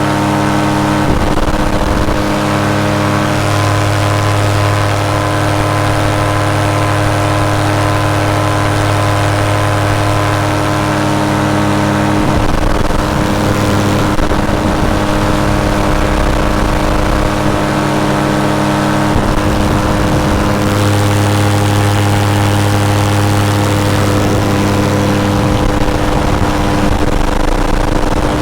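Paramotor engine and propeller running steadily in flight, holding an even pitch, with its lower tone shifting slightly a few times as the throttle changes.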